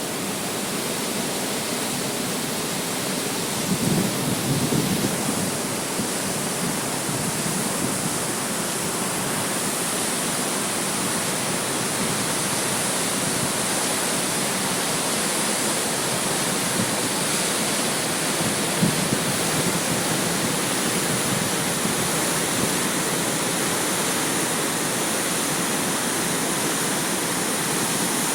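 Water rushing steadily, a dense even noise with no pauses, with a few brief louder bumps about four to five seconds in and again near nineteen seconds.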